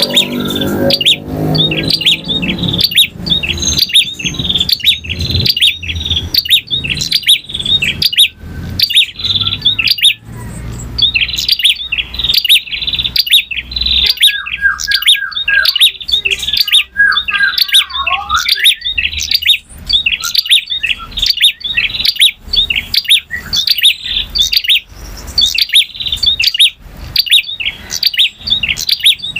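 A male prinia (prenjak) singing a long, loud song of rapid, sharp, repeated chirps, with a brief run of lower falling notes a little past the middle.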